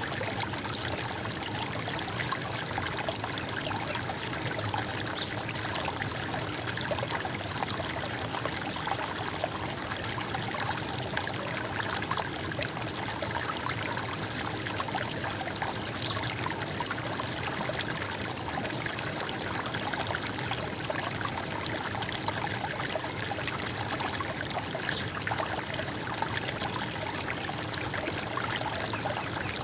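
Running water: a shallow stream trickling and splashing steadily, with no let-up.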